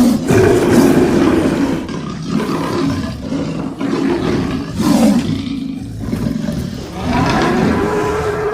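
Monster sound effect: a run of roars, one after another with short breaks, made from recordings of big cats and other wild animals.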